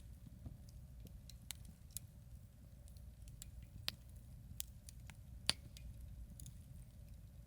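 Wood campfire crackling: irregular sharp pops and snaps, a few louder ones and the sharpest about five and a half seconds in, over a low steady rumble.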